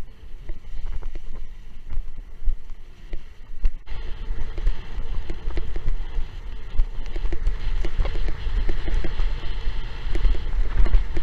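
Strong wind from an approaching typhoon buffeting the microphone while windsurfing, a heavy rumbling rush mixed with water rushing and splashing, getting louder about four seconds in.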